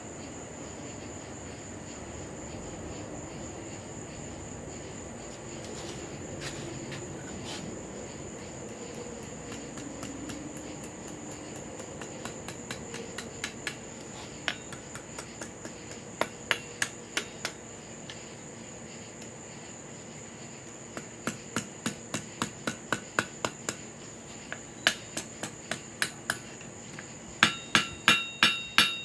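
Hammer blows on an anvil, forging a cut flooring nail into a small hook. Quick light taps begin about twelve seconds in and come in runs that grow louder, and the last heavy strikes near the end ring out.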